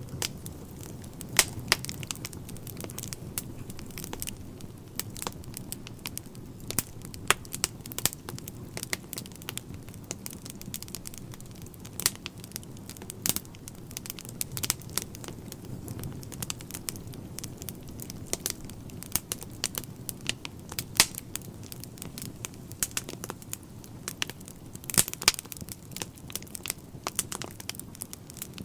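Wood fire burning in a fireplace, logs crackling with irregular sharp pops, a few louder than the rest, over a steady low rumble.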